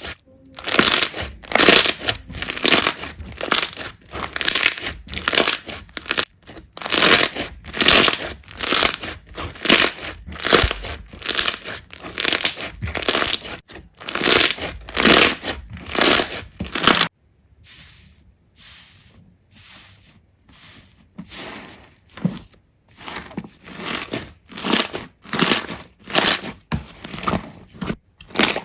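Slime being squeezed and pressed by hand, crackling and crunching in repeated strokes about two a second. About 17 seconds in the strokes cut off abruptly and come back fainter, then grow louder again.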